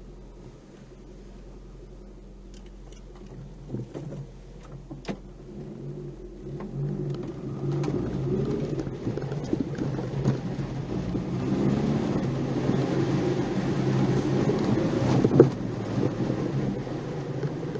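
Nissan March 12SR's 1.2-litre four-cylinder engine heard from inside the cabin while driving, quiet at first with a few sharp knocks, then pulling harder and getting louder from about halfway in, with road noise underneath.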